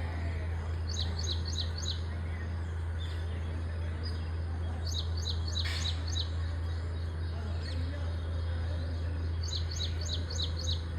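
A bird singing: a short phrase of about six quick, high, falling notes, repeated three times about four seconds apart, over a steady low hum.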